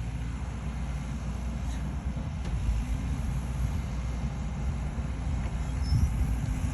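Diesel engine of a heavy earthmoving machine running steadily under load, a continuous low rumble.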